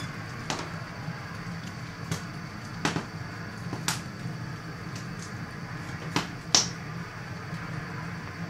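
Scattered light clicks and taps, about one a second, over a steady low hum.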